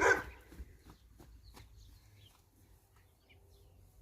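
Faint, scattered bird chirps in a quiet farmyard, with a few soft clicks.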